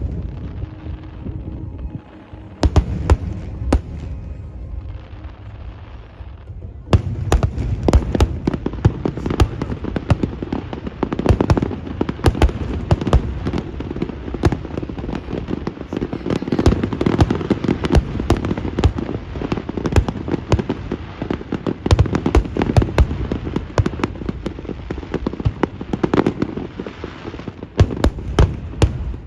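Fireworks display: aerial shells bursting one after another, sparser for the first seven seconds, then a dense, continuous barrage of bangs.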